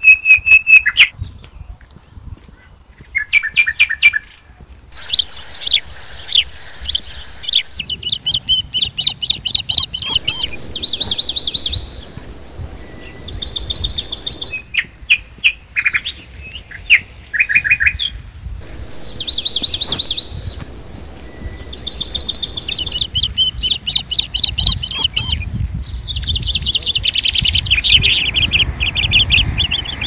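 Songbirds singing: phrase after phrase of quick trills and chirps, several birds overlapping, over a low steady rumble.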